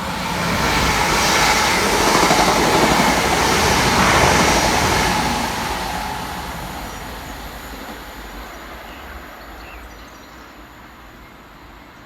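Two coupled Class 323 electric multiple units passing through the station at speed. The wheel, rail and motor noise swells to a peak a few seconds in, then dies away gradually as the train recedes.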